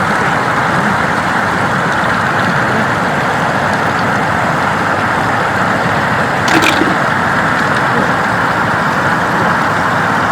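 Steady rush of flood water flowing over a road, with one short splash or knock about six and a half seconds in.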